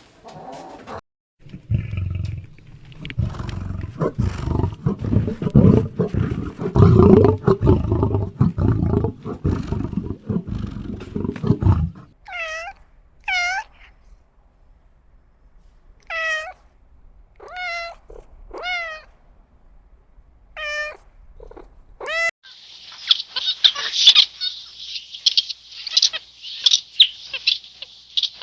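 A run of animal sounds: a low, rough growling for about ten seconds, then about eight short calls that each rise and fall in pitch, then a dense high-pitched chattering with clicks near the end.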